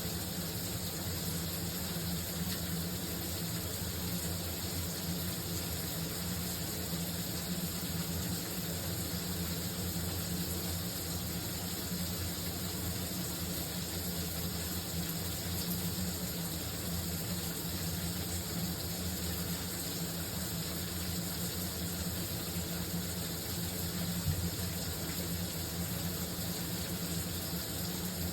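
Shower running steadily, water spray falling in an even, unbroken hiss with a low rumble underneath.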